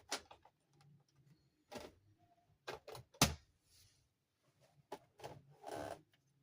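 Toy dollhouse parts being handled: a string of separate clicks and knocks, the loudest a little past three seconds in, and a short rustle near the end.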